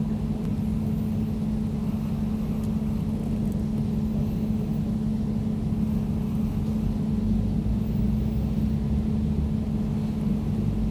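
Air conditioner running steadily: a constant low hum under a soft hiss of moving air, with no change in speed or pitch.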